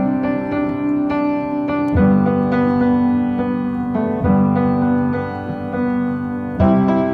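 Background music: an instrumental piano passage of sustained chords that change about every two seconds, with lighter notes played over them.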